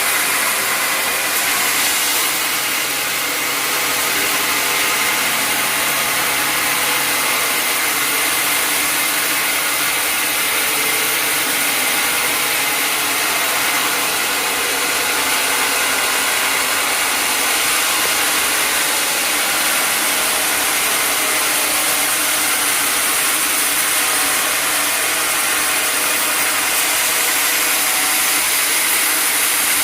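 Sawmill machinery running steadily: a loud, even noise of saw and motor that holds the same throughout.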